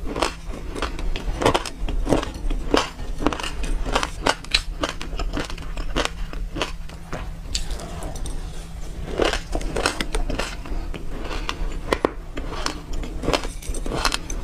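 Close-up crunching and crackling of sesame seeds being chewed, a rapid run of sharp clicks, mixed with a plastic spoon scraping and clicking in a glass bowl.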